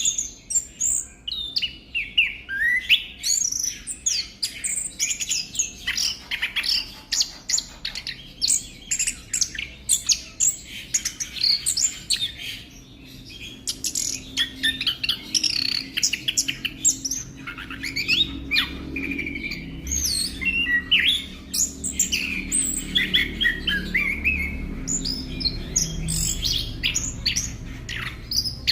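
Chestnut-capped thrush (anis kembang) singing a fast, varied song of chirps, trills and whistled slurs, almost without pause. About two-thirds of the way through a faint low hum comes in under the song.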